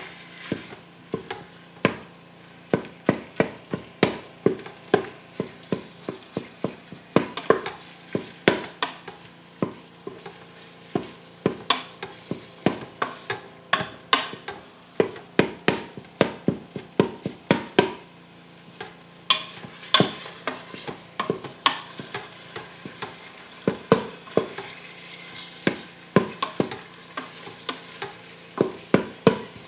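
Ground beef browning in the pot of an electric pressure cooker, stirred and broken up with a utensil that knocks against the pot over and over at an uneven pace, over a faint sizzle.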